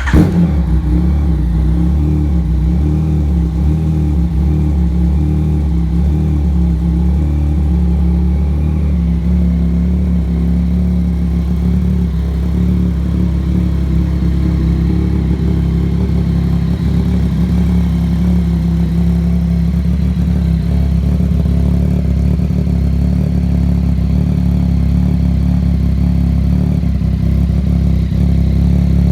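2018 Yamaha MT-09's inline-three engine running steadily through a freshly fitted M4 RM1 full carbon exhaust, just started and warming up.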